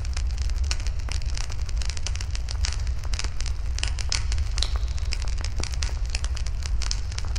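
Bonfire burning with constant crackling: many small, quick snaps and pops in an irregular scatter, over a steady low rumble.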